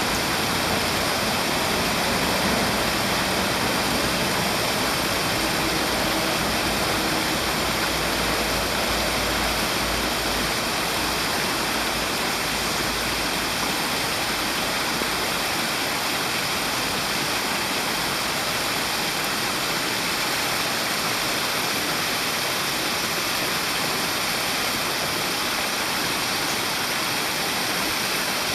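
Steady rushing of flowing water, an even hiss with no breaks, with a low rumble underneath during the first half.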